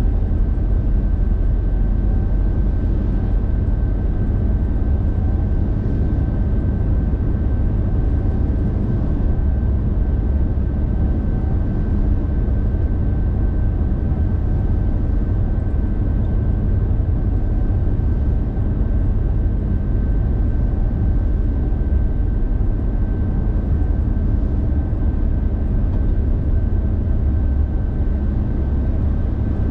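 Steady road noise of a moving car: low engine and tyre rumble at an even speed, with a faint steady high tone running through it.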